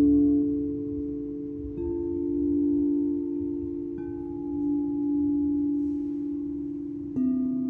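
Singing bowls struck three times, each deep note ringing on with a slow waver and fading under the next.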